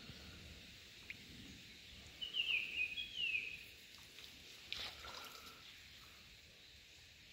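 A bird sings two short phrases of quick, falling high notes, about two and three seconds in, over a faint steady outdoor background. A brief click or handling knock follows near five seconds.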